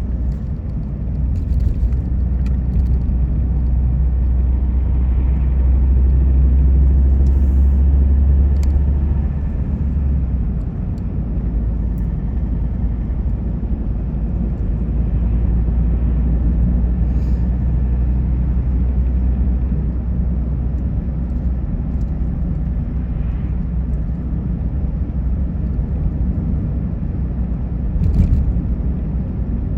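Car driving on a road: a steady low rumble of engine and tyre noise, heavier for about the first ten seconds, with a brief bump near the end.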